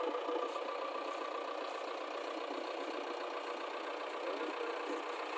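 An engine idling with a steady, even drone.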